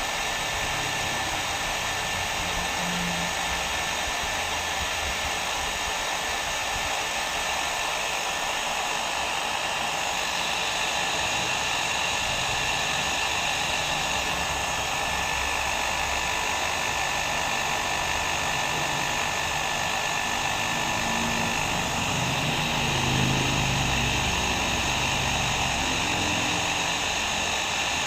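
Hair dryer blowing continuously: a steady rushing hiss with a faint whine over it, played as white noise for a baby's sleep.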